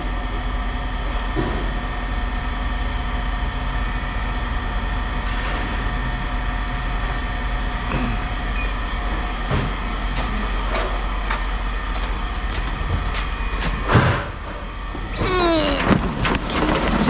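Steady mechanical drone with scattered short knocks. Near the end comes one loud knock, followed by a falling, squealing glide.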